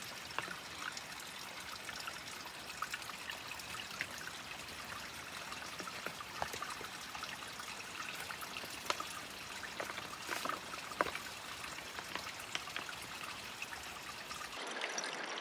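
Steady rush of a river, an even hiss, with scattered faint clicks and ticks; the sound changes abruptly about a second before the end.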